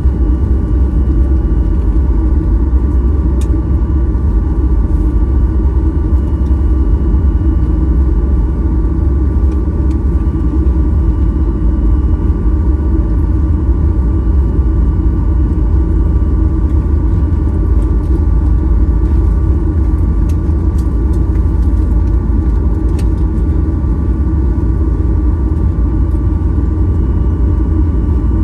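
Cabin noise of a Boeing 737-800 taxiing: a steady, loud low rumble with faint, even whining tones from its CFM56-7B engines at idle.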